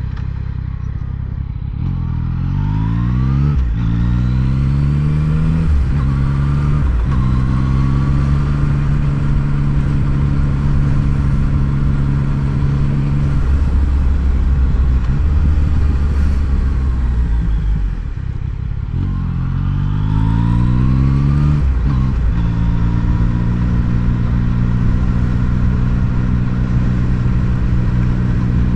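Yamaha MT-09 three-cylinder motorcycle engine heard from the rider's seat, accelerating up through the gears twice. Each time the pitch climbs and drops back at three quick upshifts. Between the two pulls it cruises steadily, then eases off for a few seconds.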